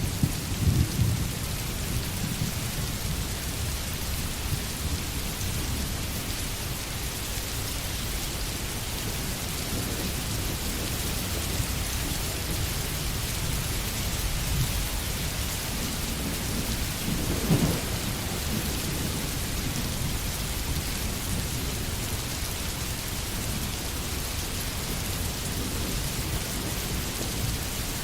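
Steady rain falling on a forest, an even hiss of drops. Low rumbles rise under it in the first couple of seconds and again briefly about two-thirds of the way through.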